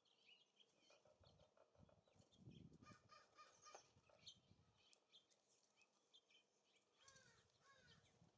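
Faint songbird chirps and short calls at a feeder, with a few gliding call notes near the end, over low gusts of wind rumbling on the microphone.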